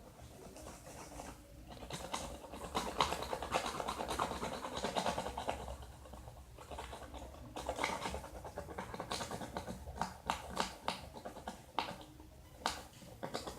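Spoon scooping and scraping wet slime mixture of glue and borax solution in a container, with irregular wet scraping and sharp clicks that grow louder about two seconds in.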